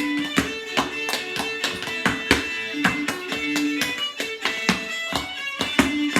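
A lively fiddle tune played solo on a string instrument, a quick, even run of sharply attacked notes over recurring held notes.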